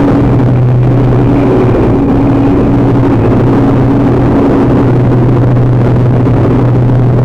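Piston-engined aerobatic aircraft flying by, its engine droning steadily at a low pitch.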